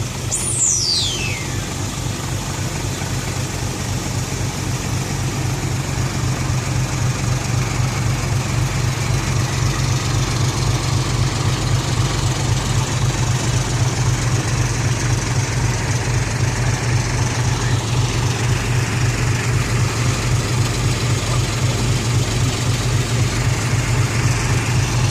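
Diesel engine of a six-wheel dump truck with a modified exhaust, idling with a steady low throb that grows slightly louder. About half a second in, a brief high whistle falls sharply in pitch.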